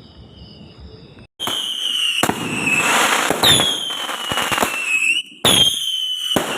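Fireworks going off in a dense, loud crackling barrage with whistles that slowly fall in pitch, starting suddenly about a second in, breaking off briefly near the five-second mark, then resuming. Before it, crickets chirp steadily.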